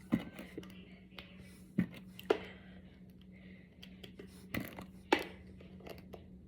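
Small plastic Brain Flakes discs clicking as they are handled and pushed together: about five sharp clicks at irregular intervals, with a few fainter ones between, over a steady low hum.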